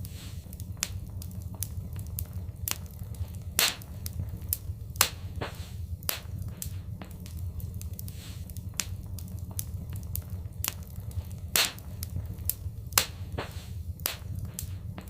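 Fireplace fire crackling, with frequent sharp pops and snaps, a few louder pops among them, over a steady low rumble of the flames.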